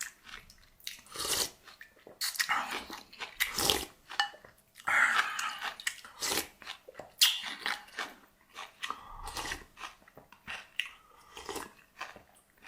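Eating sounds: irregular bites, chewing and crunching of food, in short bursts with brief pauses between.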